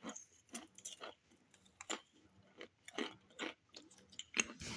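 A person chewing crackers with the mouth close to the microphone: irregular dry crunches, a few a second, a little louder near the end.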